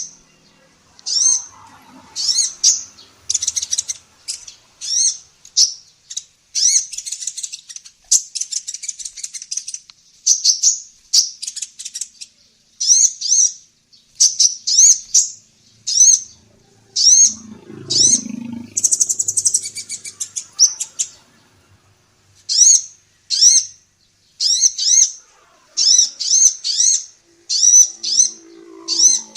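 Female sunbird ('kolibri ninja') singing: a quick, continuous series of high, sharp, slurred chirps in short clusters, broken twice by a denser buzzy trill.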